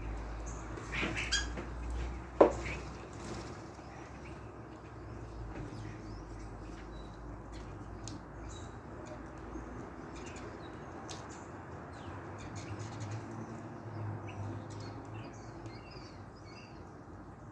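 Small birds chirping in short high notes, with a flutter of wings, and one sharp knock about two and a half seconds in.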